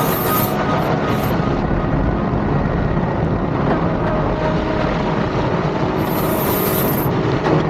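Small jet turbine engines of a Gravity jet suit running steadily, a dense continuous jet noise.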